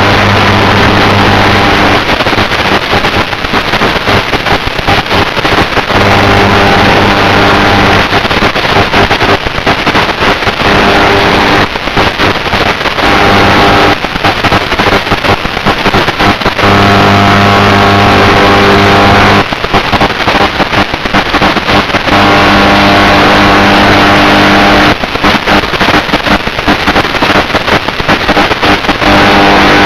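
FPV drone in flight, its onboard audio a loud, distorted rush of propeller and wind noise. A low humming tone comes and goes every few seconds.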